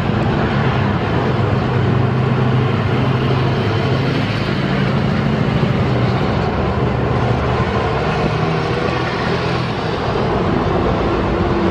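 Steady engine noise: a low, constant hum under a broad rush that holds at one level throughout.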